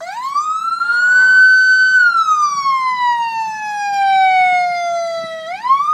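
An emergency vehicle siren starts suddenly and wails: the pitch climbs quickly to a high tone, holds for a moment, sinks slowly over a few seconds, then begins climbing again near the end.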